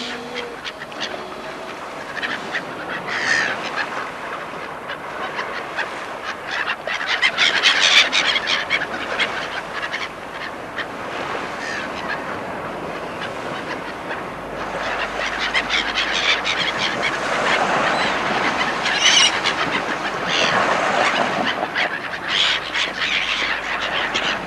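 A flock of geese and ducks honking and calling continuously, many short calls overlapping.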